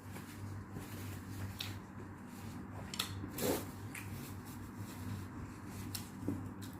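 Quiet eating sounds from a person at a meal: soft chewing and mouth sounds with a few light clicks, over a steady low hum.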